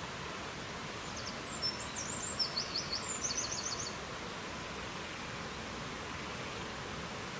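A small songbird sings one short phrase of high, quick notes about a second in, ending in a fast run of repeated chirps. Behind it is a steady rushing noise of wind.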